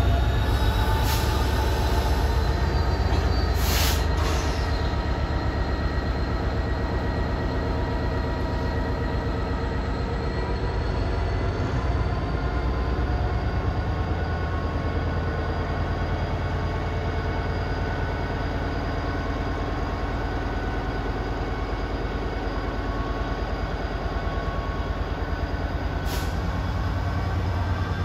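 Freight train of Drax biomass hopper wagons rolling slowly past at close range: a steady low wheel rumble with high-pitched wheel squeal, some tones gliding slowly upward, and a few sharp clanks near the start and near the end.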